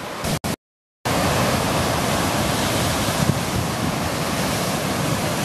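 Heavy ocean surf breaking and washing over rocks, a steady loud rush, with wind buffeting the microphone; the big surf is swell from Hurricane Marie. The audio cuts out completely for about half a second near the start and comes back louder.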